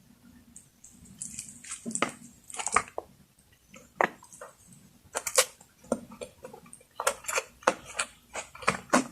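Close-miked eating sounds: irregular wet clicks and smacks of food being handled and eaten, coming thicker and faster near the end.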